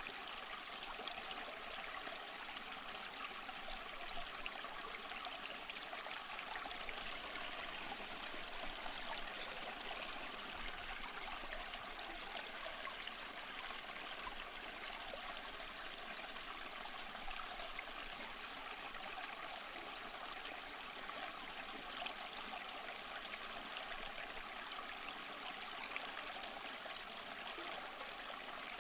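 Waterfall water running steadily: an even, unbroken rush and splash, mostly hissy and bright with little low rumble.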